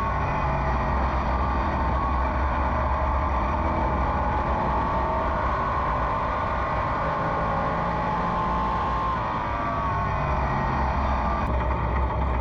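Race car engine running at racing speed on an oval, its pitch sinking and climbing again as the car slows into the turns and accelerates out of them.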